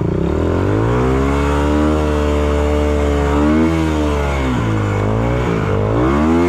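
Dirt bike's engine revving up and holding high revs, dropping back a couple of times past the middle and climbing again near the end.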